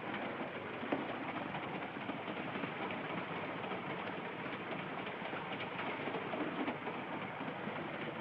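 Steady running noise of a moving train carriage on the rails, with one light knock about a second in.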